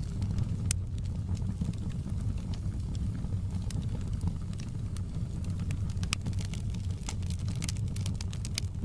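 Wood fire in a fireplace crackling, with frequent sharp pops and snaps of burning logs over a steady low rumble. The pops come thicker near the end.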